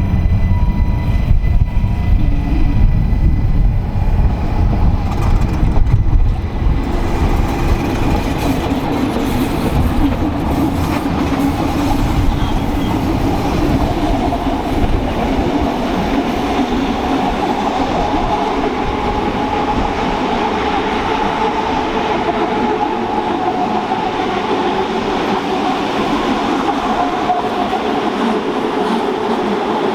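Rhaetian Railway train running on the track: a heavy low rumble for the first several seconds gives way to a steady rolling noise with a continuous hum.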